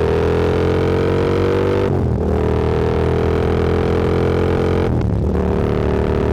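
Motorcycle engine accelerating through the gears, its pitch climbing steadily, with quick upshifts about two and five seconds in.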